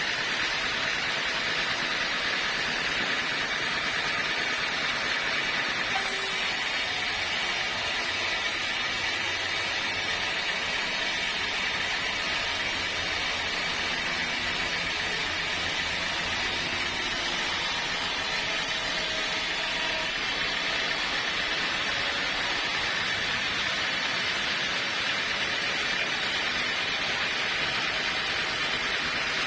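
Steady hissing machine noise, with a faint low hum running under it through the middle stretch.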